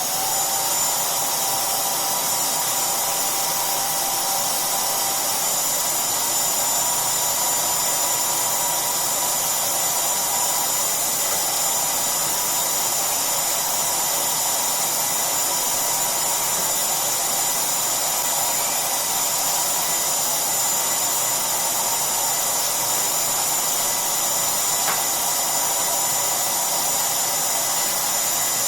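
Shop vacuum running steadily with a thin high whine, pulling air and dust through a plywood floor-sweep inlet on the end of its hose.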